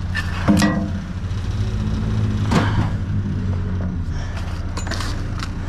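A vehicle engine running steadily with a low drone. A couple of sharp knocks come about half a second and two and a half seconds in, typical of scrap being moved about in a metal dumpster.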